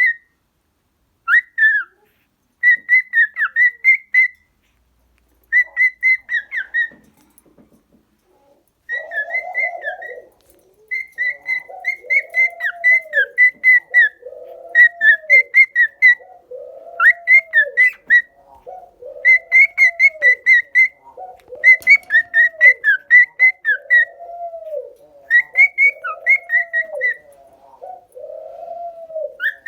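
Pet cockatiels whistling in quick, repeated trilling phrases, broken by short pauses. From about nine seconds in, a lower cooing call joins them, repeating steadily about once every second and a half.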